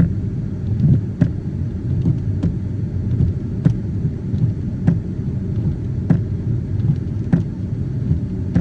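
Steady car cabin rumble from engine and tyres on a wet road, with a sharp light tick about every second and a quarter.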